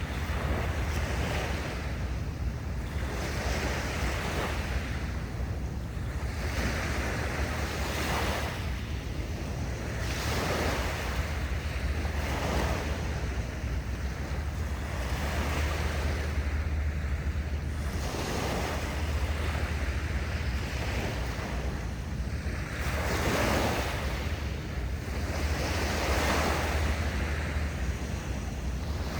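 Sea waves washing in, swelling and fading every two to three seconds, over a steady low wind rumble on the microphone.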